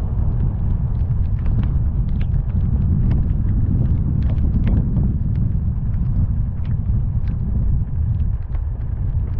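A car driving through heavy rain: a steady, deep rumble of road and wind noise, with many sharp ticks of raindrops striking the car or camera.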